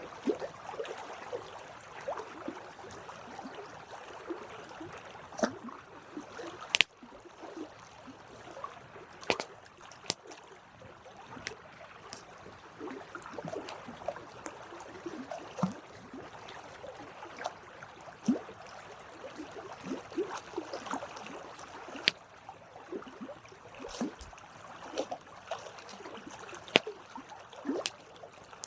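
Wood fire burning: a steady crackle with sharp pops and snaps scattered irregularly through it, a handful of them much louder than the rest.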